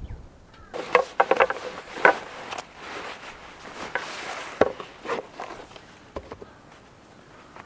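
Objects being handled: a quick run of sharp knocks and clatters about a second in, a scraping hiss around the middle, then a few more knocks.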